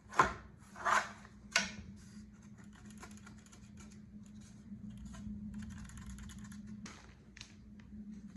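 Four-piece paddle's blade and shaft sections being handled, knocking and clicking. There are three sharper knocks in the first two seconds, then a long run of small ticks and rustles over a faint steady hum.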